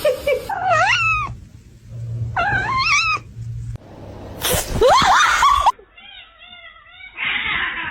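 Cats meowing in four long calls that waver in pitch, the loudest about five seconds in.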